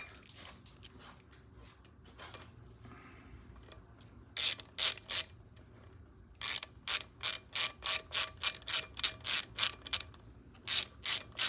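Hand socket ratchet clicking as it is worked on a bolt: a few clicks about four seconds in, then a steady run of about three clicks a second, and a last few near the end.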